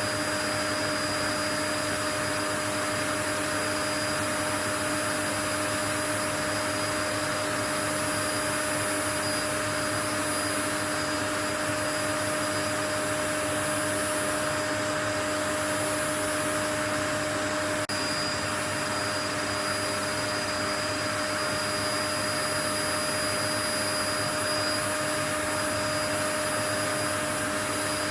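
Continuous white noise: an even, unchanging rushing hiss with a few faint steady hum tones in it, like an appliance motor running.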